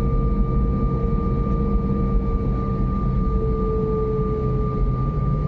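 Airliner cabin noise: a steady low rumble with a steady high whine from the jet engines. A second, lower tone shifts slightly in pitch about halfway through.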